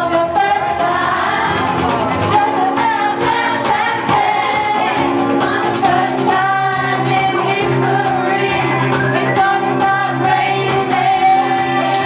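Karaoke: a singer holding long sung notes over a pop backing track with a steady drum beat.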